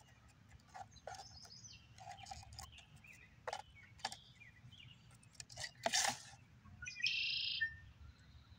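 Wild birds calling in the field around the thistle: a scatter of short chirps, then a loud buzzy trill lasting under a second near the end. A brief loud scratchy noise comes about six seconds in, over a faint low rumble.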